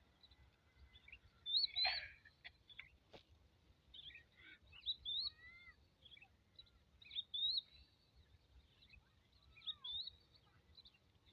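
Small birds chirping: many short, high chirps, some sliding up or down in pitch, loudest about two seconds in. A single faint click a few seconds in.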